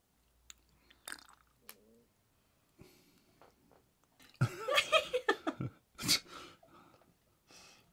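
A man chewing food with small wet mouth noises, then making a drawn-out wordless vocal reaction about halfway through and a sharp breath just after.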